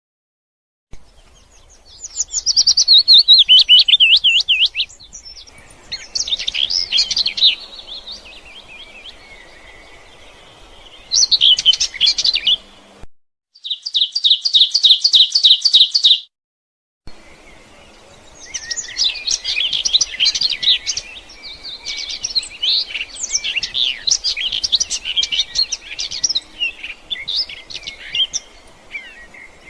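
Songbirds singing in bouts of rapid chirps and trills, several phrases a few seconds long with quieter gaps between. The sound drops out completely twice for a moment, partway through.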